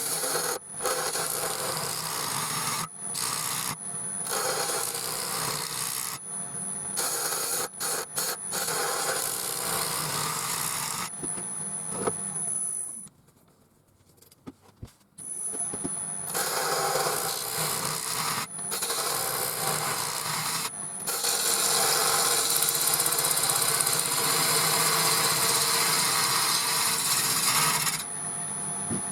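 Wood lathe turning a chestnut blank between centres while a gouge roughs it round, a continuous scraping cut over the motor's steady hum. The cutting breaks off several times, with a near-quiet spell about halfway, and is at its loudest and densest near the end.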